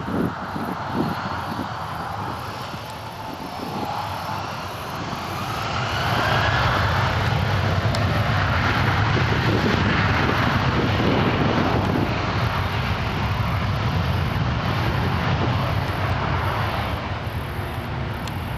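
Jet airliner engines, growing louder about six seconds in with a rising whine, then a loud steady rush.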